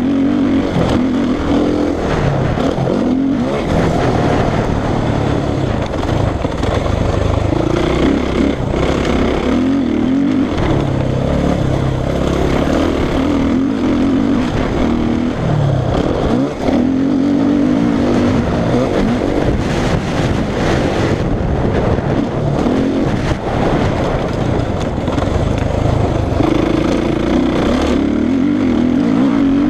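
Suzuki RM-Z450 four-stroke single-cylinder motocross engine ridden hard, its pitch rising and falling again and again as the throttle is opened and shut.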